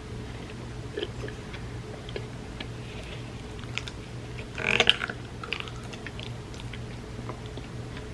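Close-miked eating of creamy rice pudding: soft chewing and small wet mouth clicks over a steady low hum. There is one louder, brief mouth sound about five seconds in.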